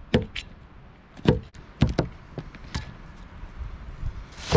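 A large knife chopping morel mushrooms, striking the cutting surface about five times at an uneven pace.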